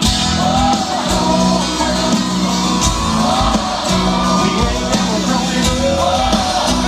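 Live country-rock band playing loud amplified music with a sung voice over it.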